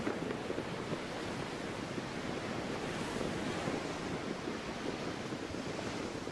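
Sea waves washing steadily, with wind.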